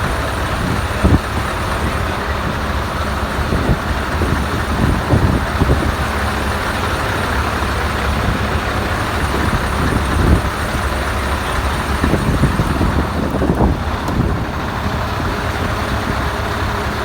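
Scania 143H V8 diesel truck engine running with a steady low rumble and irregular brief louder surges, the strongest about a second in and about ten seconds in.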